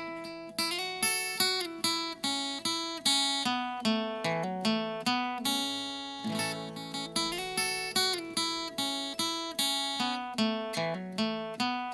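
Instrumental break in a song: acoustic guitar picking a melody of single notes over chords, each note struck and ringing out, about two to three notes a second.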